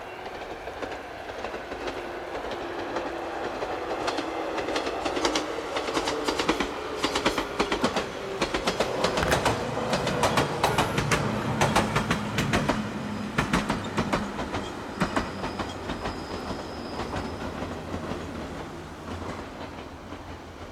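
JR 113 series electric train passing at speed. Its wheels click over the rail joints, loudest about halfway through, then fade into the distance, while a running hum falls in pitch over the first several seconds.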